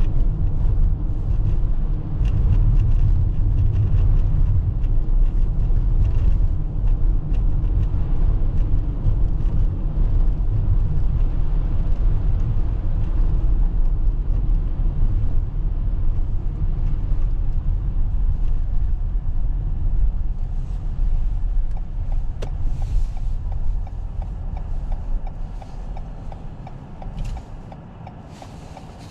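Toyota RAV4 hybrid driving on snowy roads: a steady low tyre-and-road rumble, heard from inside the cabin. It fades away over the last several seconds, with a couple of light clicks near the end.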